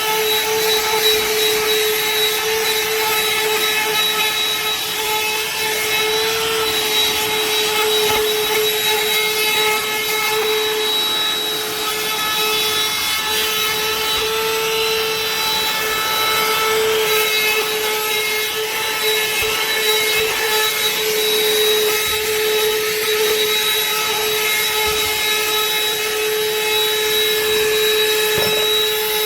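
BLACK+DECKER 20V Dustbuster (BDH2000L) cordless handheld vacuum running as it sucks up debris: a steady, kind of loud motor whine with a rush of air.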